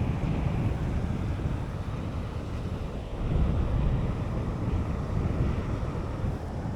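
Wind buffeting the microphone in a steady, low, fluctuating rush, with the wash of surf behind it.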